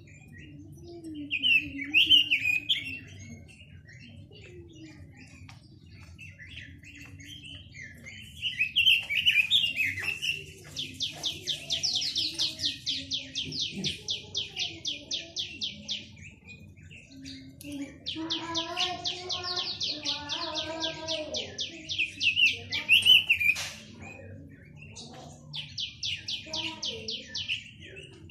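A quế lâm songbird singing: short warbled phrases, then three long, fast trills of evenly repeated notes, the longest about five seconds.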